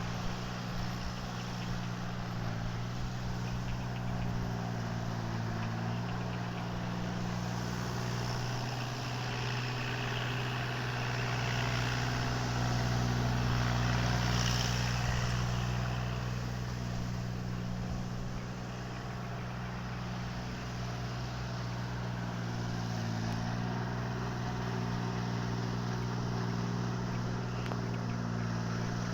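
Tractor engine running steadily, growing louder for a few seconds about midway through, then easing back to its earlier level.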